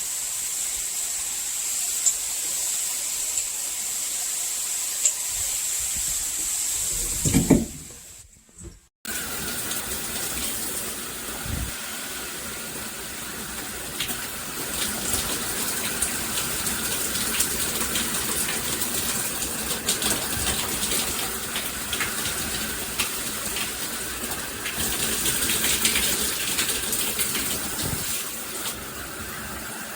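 Water spraying steadily from a handheld shower head, with a short break about eight seconds in, after which the spray resumes with a slightly different hiss.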